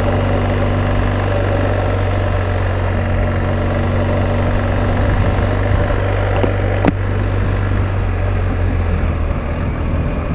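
BMW R1250 GS Adventure's boxer-twin engine idling steadily, with one sharp click about seven seconds in.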